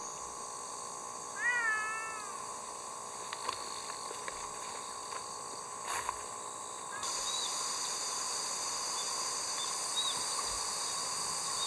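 A cat meowing once, a short call that rises and falls in pitch, with a few faint clicks over a steady background.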